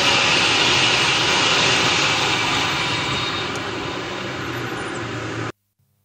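Train passing at speed, a loud rushing roar of wheels and air that slowly fades as it goes by, cut off suddenly near the end.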